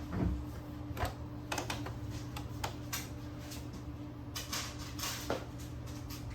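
Scattered light clicks and short rustles, like plastic parts being handled, over a steady low hum.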